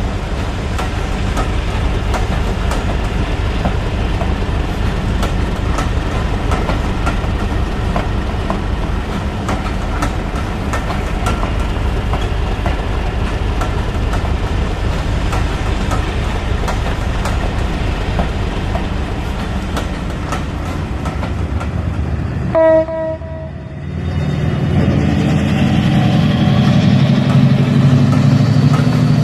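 Model diesel train running on a Hornby layout: a steady rumble with many small rail clicks, then a short horn blast about three-quarters of the way through, after which a diesel engine note builds up.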